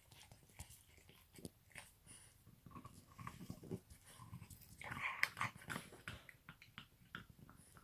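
French bulldog puppy chewing and gnawing on a brush: irregular clicks and scrapes of teeth on the brush, busiest about five seconds in.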